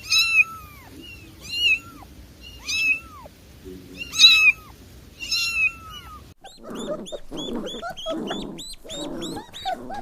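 A kitten meowing five times, each a high, thin call that falls in pitch, about a second and a half apart. Partway through, this gives way to a quick, continuous run of short high squeaks over lower scuffling cries.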